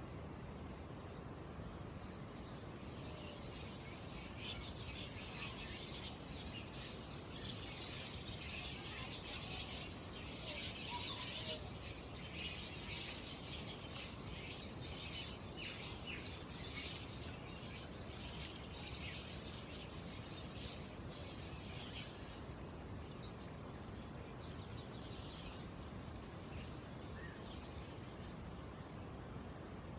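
A steady, high-pitched chirring of crickets, with many small birds chirping over it. The chirps are thickest through the middle and thin out near the end.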